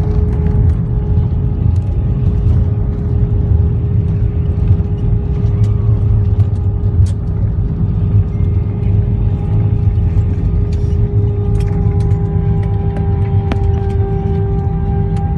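Airliner cabin noise: the aircraft's engines make a loud, steady low rumble, with a constant hum running through it.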